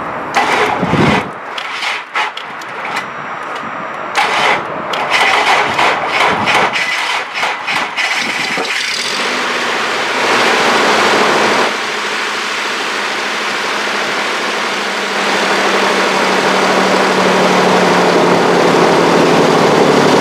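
2002 Isuzu Trooper's V6 being cranked by its starter in two tries, catching about eight seconds in and then running, with a brief rev around ten seconds before settling into a steady idle.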